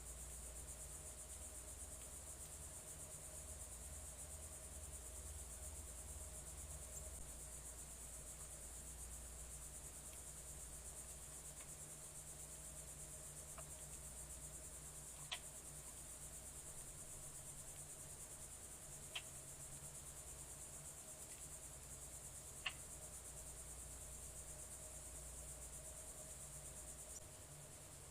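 Faint, steady, high-pitched chorus of crickets, with a low hum underneath. Three short, sharp clicks come in the second half.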